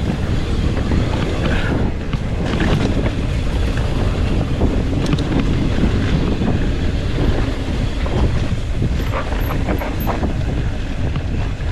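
Wind buffeting the microphone of a mountain bike riding fast down a rough, rocky dirt trail, with the rumble of tyres and scattered knocks and rattles from the bike.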